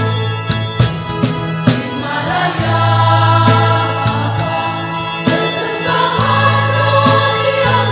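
Church congregation choir singing in parts, entering about two seconds in, over an accompaniment of steady low bass notes and sharp percussive hits.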